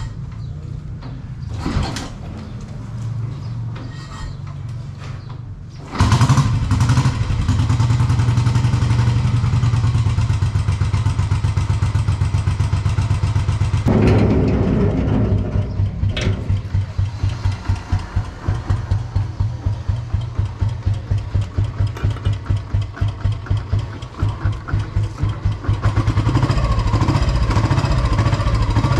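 Royal Enfield Bullet 500's single-cylinder four-stroke engine being kick-started: a couple of knocks, then it catches suddenly about six seconds in and keeps running, with a regular pulsing beat later on.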